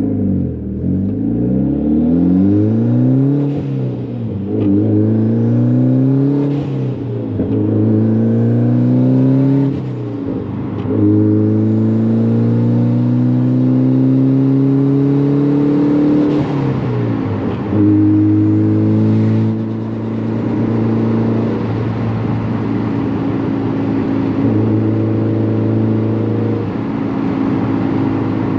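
Mitsubishi Lancer Evolution X's turbocharged four-cylinder with an open-dump, titanium exhaust, accelerating from a stop. Its pitch rises and drops back with each upshift over the first seventeen seconds or so, then holds steady at cruise.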